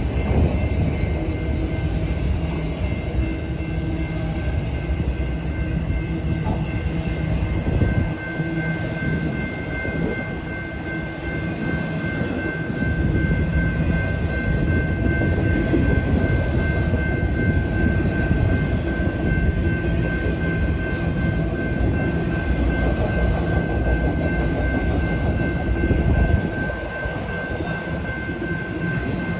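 Freight train of auto rack cars rolling past, a continuous heavy rumble of wheels on rail with a steady high-pitched tone running over it.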